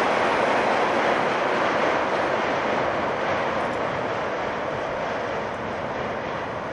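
Electric commuter train crossing a steel truss rail bridge, a steady rumble that slowly fades over a few seconds.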